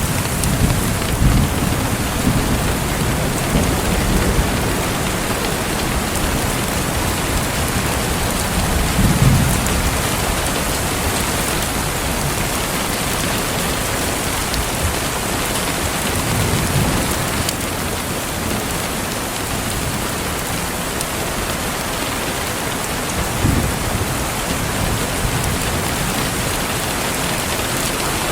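Steady heavy rain falling, with deep low rumbles swelling up several times, about 9, 17 and 23 seconds in.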